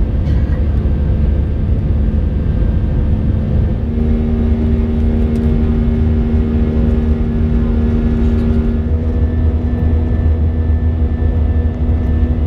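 Airbus A319 cabin noise: a steady low rumble of engines and airflow, with engine hum tones that step to a new pitch about four seconds in and again near nine seconds.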